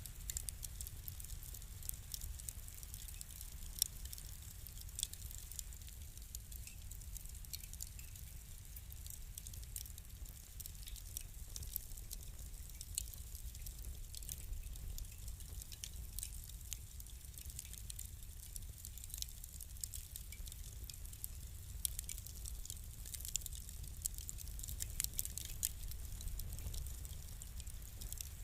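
Fire crackling: a steady stream of irregular sharp pops and snaps over a low, even rumble.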